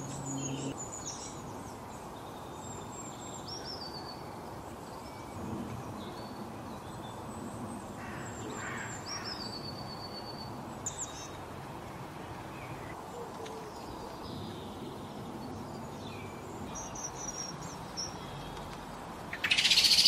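Small songbirds chirping and whistling here and there over steady outdoor background noise. Near the end a sudden loud burst of rapid high twittering starts: blue tit nestlings begging in the nest box as an adult arrives at the entrance hole.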